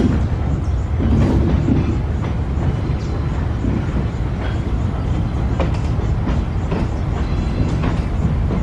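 GE ES44ACi diesel-electric locomotives running with a steady deep rumble. Scattered sharp clicks of wheels on the rails come through the rumble.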